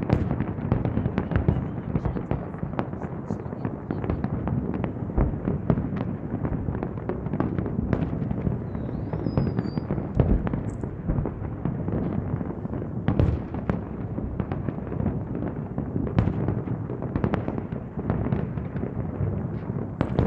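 Fireworks display: a dense, unbroken barrage of bangs and crackles with no pause.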